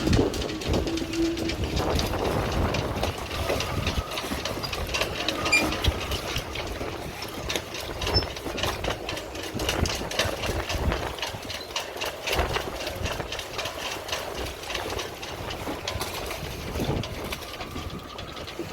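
Strong gusty wind buffeting the microphone with an uneven low rumble, over a dense, continuous rattling and clicking.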